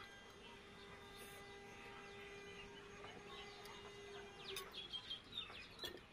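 Birds chirping in the background over a faint steady drone. The drone fades out about four and a half seconds in, and a quick run of sharp chirps follows near the end.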